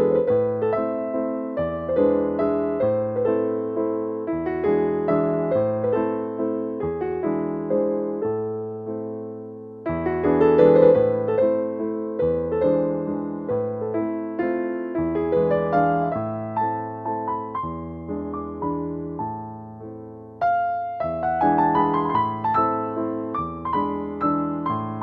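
Background piano music: a gentle, slow piece of repeated chords and melody notes that die away after each stroke.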